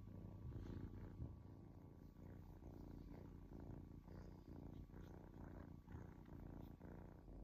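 Kitten purring steadily and faintly.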